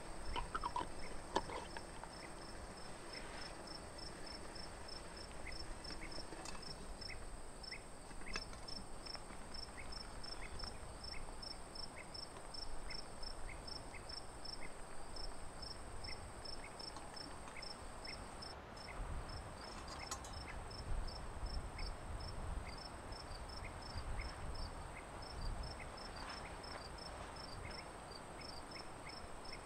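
Crickets chirping in steady, even rhythms: one fast, high chirp about three times a second over a slower, lower chirp about once a second, with a continuous high insect hiss. A soft low rumble comes in during the second half.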